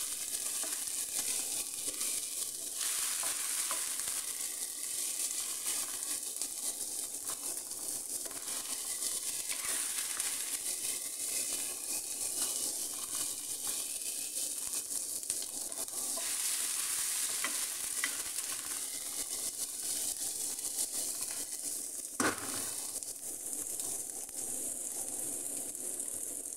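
Garlic and ginger paste with chopped aromatics sizzling in oil in a frying pan, stirred with a wooden spatula that scrapes across the pan. Near the end comes one sharp knock, after which the sizzling goes on without stirring.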